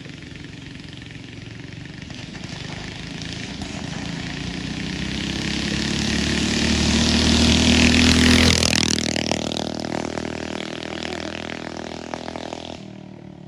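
Minibike engine riding past: it grows steadily louder as it approaches, peaks about eight seconds in, then drops in pitch and fades as it moves away, cutting off suddenly near the end.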